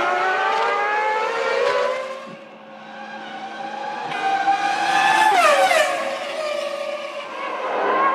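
Formula One cars' high-revving V10 engines passing trackside: one climbs in pitch and fades away about two seconds in, and another builds up and passes close about five seconds in with a sharp drop in pitch, followed by a third rising near the end.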